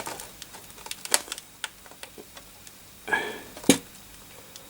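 Irregular light clicks and taps of parts and hand tools being handled while desoldering motherboard connectors over a solder pot, with a brief squeaky pitched sound a little after three seconds in.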